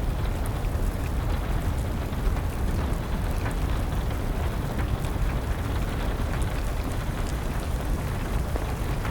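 Wood fire crackling, with scattered sharp pops over a steady low rumble, mixed with an even wash of rain.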